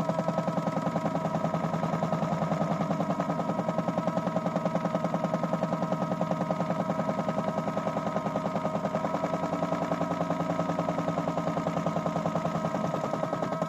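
Toy Miele W1 washing machine running a wash cycle: its small electric motor gives a steady hum with a fast, even pulsing, about eight beats a second.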